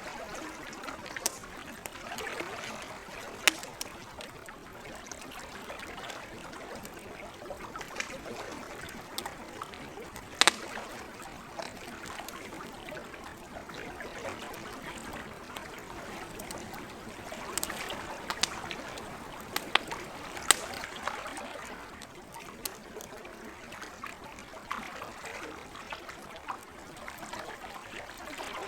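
Campfire crackling with many small snaps and a few louder pops, the sharpest about ten and twenty seconds in, over a steady trickle of lake water.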